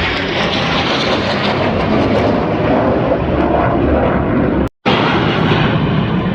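Air-show aircraft flying low overhead, a loud, steady engine noise that cuts out for a split second about four and a half seconds in.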